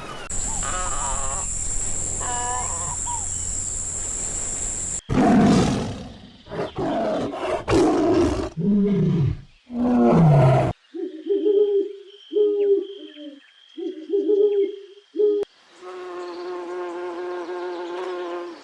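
A run of different animal calls one after another: a high steady insect-like buzz with faint chirps, then a series of loud roaring calls that fall in pitch, then four short pitched calls, and near the end one long held call.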